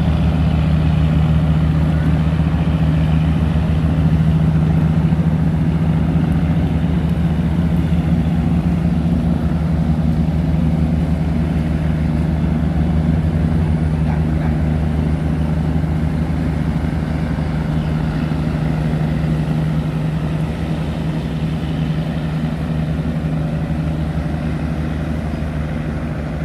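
A tugboat's heavy diesel engine runs steadily with a deep, even drone, easing slightly in level toward the end.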